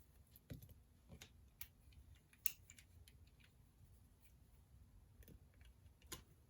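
Scattered small clicks and taps of desk work, irregularly spaced, the sharpest about two and a half seconds in, over a faint room hush.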